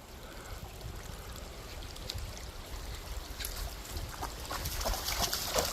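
Water splashing and lapping as a kelpie swims, the splashes coming more often from about halfway through.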